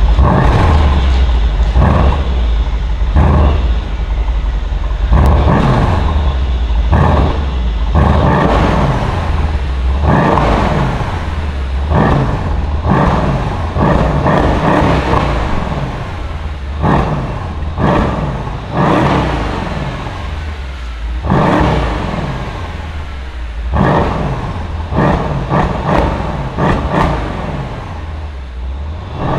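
Mercedes-AMG E63 S twin-turbo V8 exhaust, revved again and again in short blips, each rising sharply in pitch and falling back over a second or two. Sharp cracks come between many of the blips as the revs drop.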